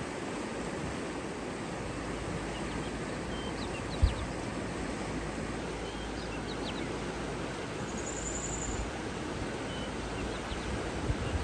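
Steady outdoor rushing noise with scattered short, high bird chirps throughout and a brief buzzy trill a little past the middle. A single low thump comes about 4 seconds in.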